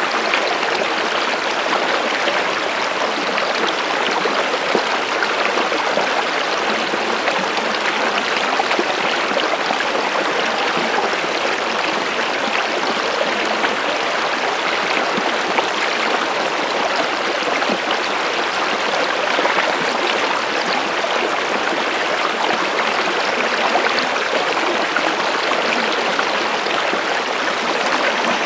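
Stream of running water, a steady babbling rush with fine splashing detail and no change in level.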